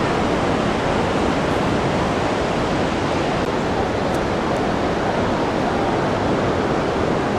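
Ocean surf: a steady, even roar of breaking waves.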